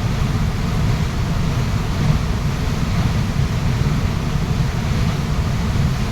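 Waterfall's rushing water, a steady even rush heavy in the low rumble.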